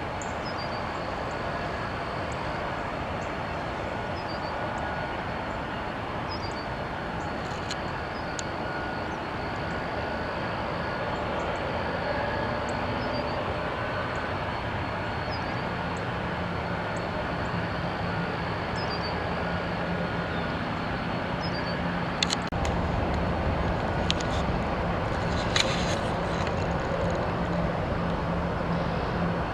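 Steady noise of jet aircraft around an airport runway. About halfway through a steady low hum joins in, and near the end a deeper rumble builds, with a few sharp clicks.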